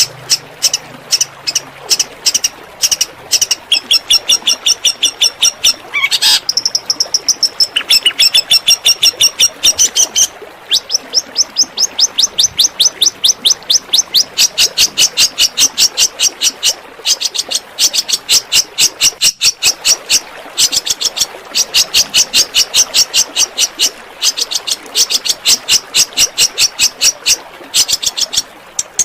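Songbird singing a rapid-fire 'tembakan' song: long runs of sharp, fast, evenly repeated high notes, about five or six a second, broken by a few short pauses.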